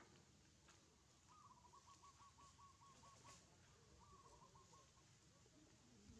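A bird calling faintly: two runs of quick, evenly repeated short notes, about five a second, the first run longer than the second.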